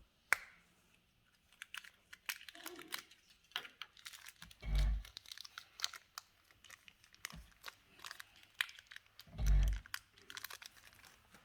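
Crinkling, crackling and clicking as a reusable plastic toy egg is squeezed hard and pried open, with its blind bag rustling. Two dull thumps stand out, about five seconds in and again near the end.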